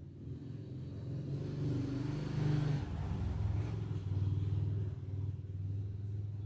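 A motor vehicle driving past. Its engine note rises in loudness, drops in pitch about three seconds in as it passes, then fades.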